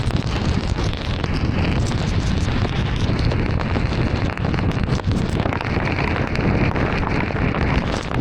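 Heavy rain hitting a moving car, many sharp drop impacts over a steady low rumble of tyres and road noise on wet pavement.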